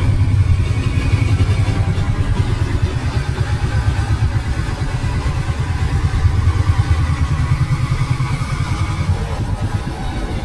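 Motorcycle engine running under way, a steady low rumble.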